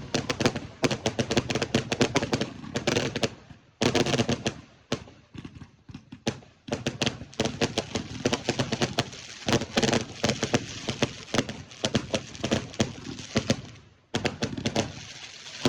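Fireworks going off: rapid runs of sharp bangs and crackles in quick succession, easing briefly about a third of the way in and again near the end before picking up.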